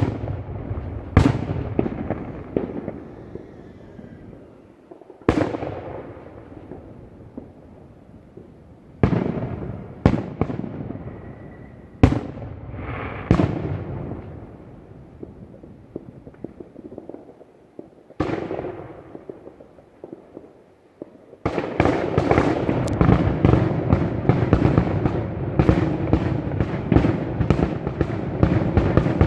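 Aerial fireworks going off: single booming shell bursts a few seconds apart, each trailing off in crackle and echo. About two-thirds of the way through they give way to the finale, a dense barrage of rapid bangs with no gaps.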